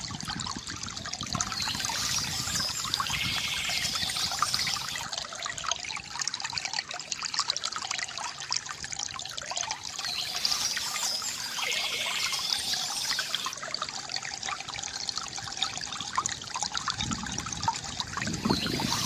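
Water from a bamboo fountain trickling and gurgling steadily, with a fuller pouring sound near the end.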